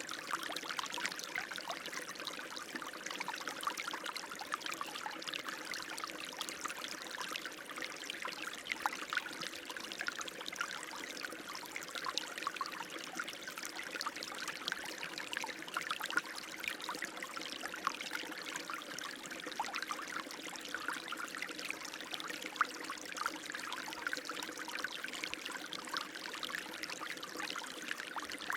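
Running water, a steady stream with constant splashing and trickling.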